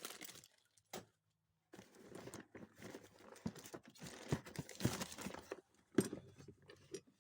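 Plastic bag rustling and crinkling while used small-engine carburetors and parts are rummaged through, with a sharp knock about a second in and another about six seconds in.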